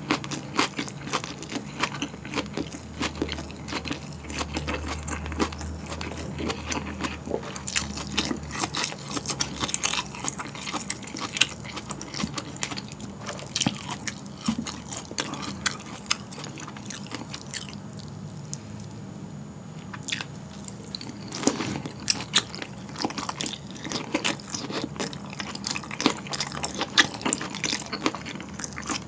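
Close-miked chewing of boiled pork with kimchi and crisp lettuce: moist smacking and crunching bites, with a short pause about two-thirds of the way through.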